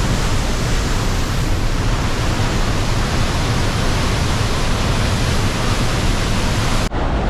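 Geli Ali Beg waterfall: a strong waterfall crashing onto the rocks below, heard close by as a loud, steady rush of water. Near the end it cuts off abruptly and gives way to a duller rushing sound.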